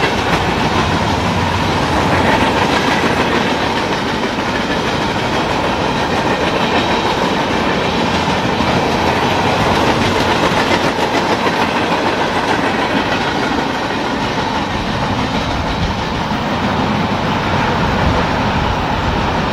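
Freight cars of a mixed freight train, tank cars and covered hoppers, rolling steadily past, their steel wheels rumbling and clicking over the rails with a steady ringing tone running through.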